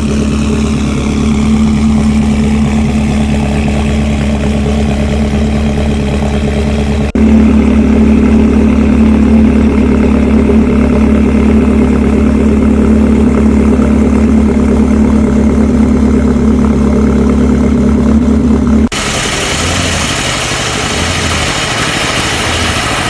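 A car engine idling steadily and loudly with an even, unchanging pitch. The sound changes abruptly twice, about seven seconds in and near nineteen seconds. The last stretch is hissier, with a few short low pulses.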